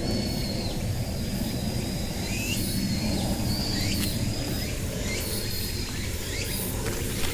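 Wild birds calling in the trees: a scatter of short, high chirps and whistles, some sliding down in pitch. Under them is a steady low background noise.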